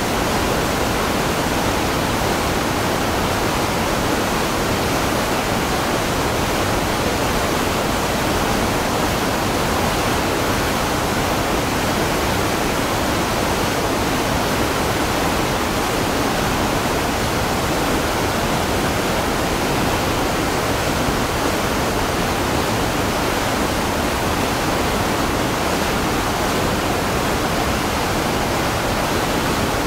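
Waterfall: falling water rushing in a steady, unbroken roar with no changes.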